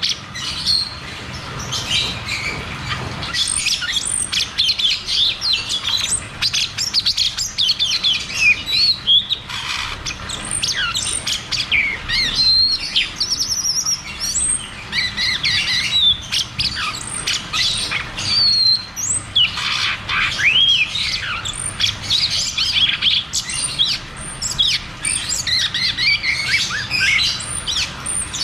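Cucak cungkok songbird singing a long, rapid rolling song of quick chirps and whistled notes that sweep up and down, with little break between phrases.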